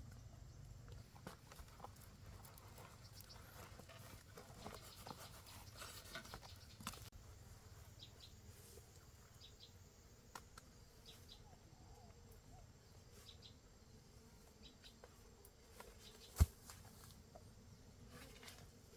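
Faint scattered rustling and light clicks, with a few short high chirps, and one sharp thud about sixteen seconds in.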